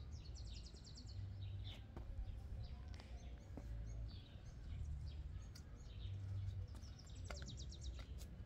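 Outdoor ambience of birds chirping, with two quick, high trills, one about half a second in and one near the end, over a low rumble.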